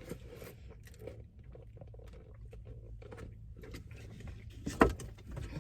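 Faint chewing and mouth sounds in a small, enclosed space, with scattered small clicks and one sharper click near the end.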